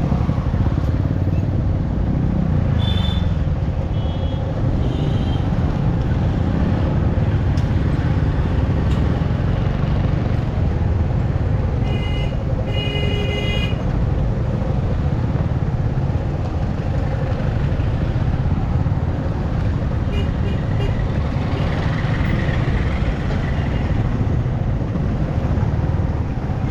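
Riding a motorcycle through road traffic: a steady rumble of wind and road noise, with other vehicles' horns honking several times. The longest honks come about halfway through.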